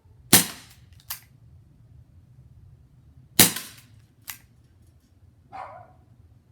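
Two shots from a Crosman SNR 357 CO2 air revolver, about three seconds apart. Each shot is followed under a second later by a fainter sharp click. A short, weaker sound comes near the end.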